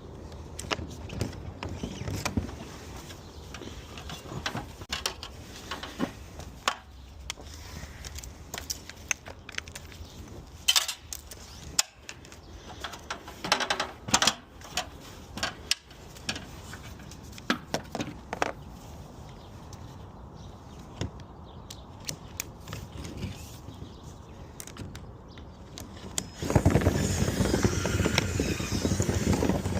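Dryer vent cleaning rods and tools knocking and clicking irregularly against the vent duct, then, near the end, a loud steady rushing noise starts up.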